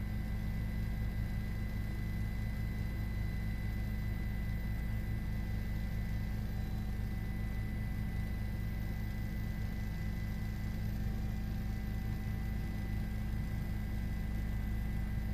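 Steady low drone with a few faint, steady high whines and no change throughout, typical of the engine and rotor noise inside a news helicopter carried on a live broadcast feed.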